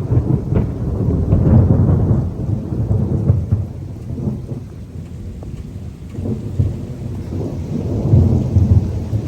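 Heavy rainstorm: rain with a loud low rumble that swells around a second and a half in and again about eight seconds in.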